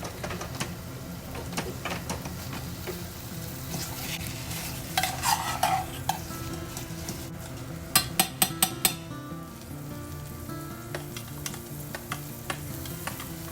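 Food sizzling as it fries in a pan while being stirred, with scrapes and clatters of the utensil against the pan. There is a clattering burst about five seconds in and a quick run of about six taps about eight seconds in.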